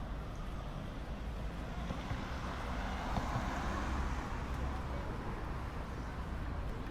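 Busy city ambience: a steady low rumble with a swell of passing noise about three seconds in, and faint voices of people nearby.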